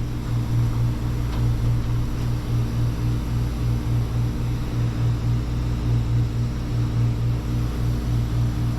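A machine running steadily: a low hum that pulses a few times a second over a haze of noise, and it cuts off abruptly at the end.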